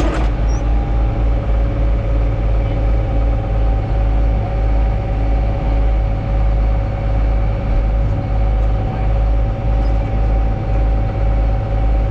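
Heavy vehicle engine running at a steady speed, with a deep pulsing throb and a steady whine above it; no revving or change in load.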